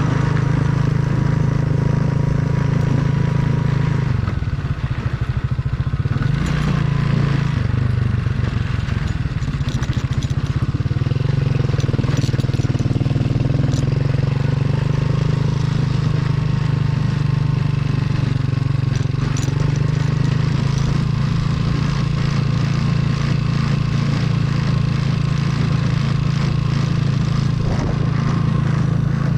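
Motorcycle engine running steadily while riding off-road, its pitch shifting as the throttle changes between about 4 and 11 seconds in.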